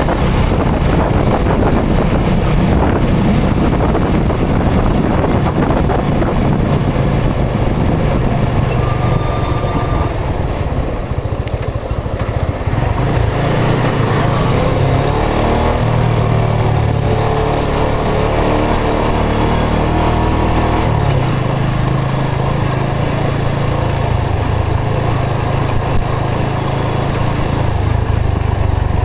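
Motorcycle engine running while the bike is ridden along the road. Its pitch rises and falls about halfway through as the speed changes.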